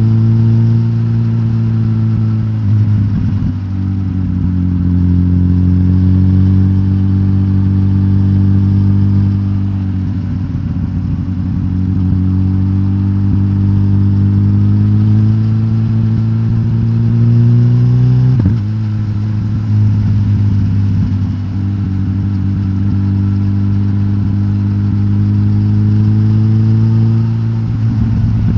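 Suzuki GSX-S1000GT's K5-derived inline-four engine, decatted with the stock exhaust, running under load while riding. Its pitch creeps up slowly, then drops suddenly at a few gear changes.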